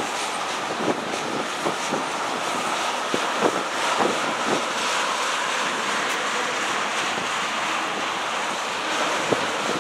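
CSX freight train rolling past: a steady rushing noise of the cars, with irregular clicks and knocks of the wheels on the rails.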